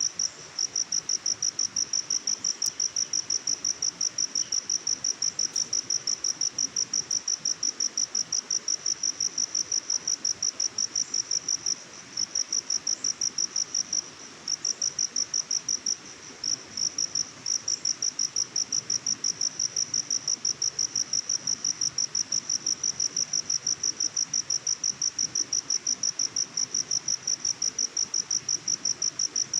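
Cricket chirping steadily in a fast, even pulse, several chirps a second, with a few short pauses midway, over a faint background hiss.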